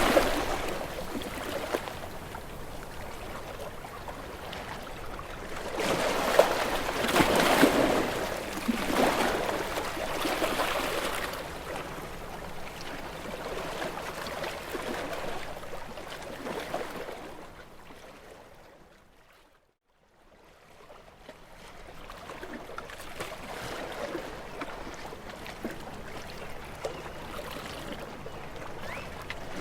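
Sea waves breaking on shore rocks, each surge followed by water washing and trickling back among the stones. Loud surges come at the start and about seven seconds in; about two-thirds of the way through the sound briefly dies away almost to nothing, then builds again toward another surge.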